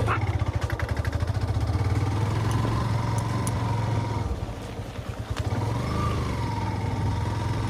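Yamaha FZ motorcycle's single-cylinder engine running under load on a rough off-road climb, with a fast pulsing beat early on; it eases off for a moment about halfway through, then picks up and runs steadily again.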